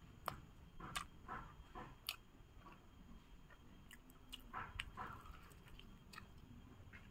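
Faint eating sounds of fried chicken: irregular biting and chewing, with scattered short crunches and mouth clicks.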